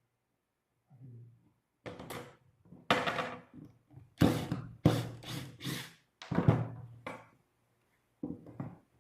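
A series of wooden knocks and thunks, about nine at uneven intervals, each sharp with a short ring, over a faint low hum.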